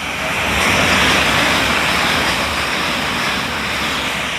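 Great Northern electric multiple-unit train passing close by: a loud rush of wheel and air noise that swells about a second in and eases slowly toward the end, with no horn.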